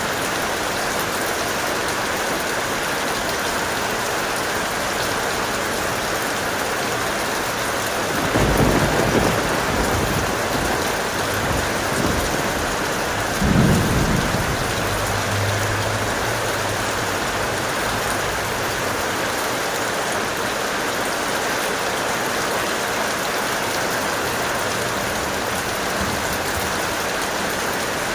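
Heavy, steady rain with thunder rumbling twice: once about eight seconds in, and again about halfway through, where a sharper clap trails off into a low rumble.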